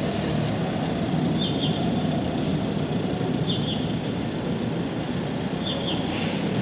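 A songbird repeats a short call three times, about every two seconds: a thin high note, then a quick pair of lower notes. Under it runs a steady low rumbling noise.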